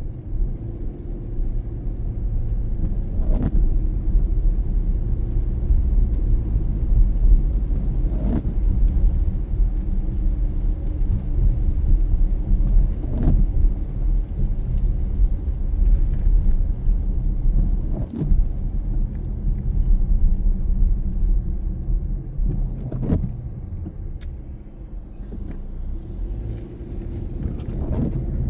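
A car driving at steady speed in the rain, with a continuous low engine and road rumble. A short swipe sounds about every five seconds, the rhythm of windshield wipers on an intermittent setting.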